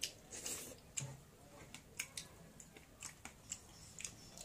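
Close-miked chewing and wet mouth clicks of people eating rice and meat by hand, heard as a string of irregular sharp smacks.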